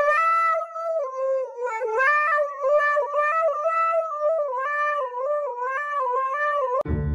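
Husky howling into a handheld karaoke microphone: one long, wavering, sing-song howl that rises and falls in pitch, with brief breaks. Right at the end it cuts suddenly to upbeat music.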